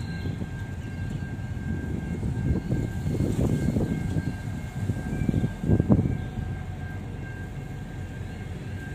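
Pacific National freight train's wagons rolling past with a steady rumble, a thin high whine running underneath. Gusts of wind buffet the microphone, sharpest about six seconds in.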